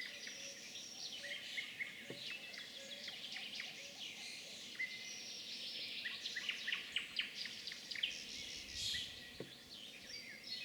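Several small birds chirping and singing at once, many quick overlapping high calls with no pause.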